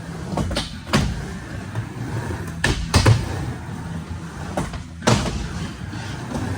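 Skateboard riding a mini ramp: a steady rolling rumble of the wheels, with loud clacks of the board about every two seconds and smaller knocks between.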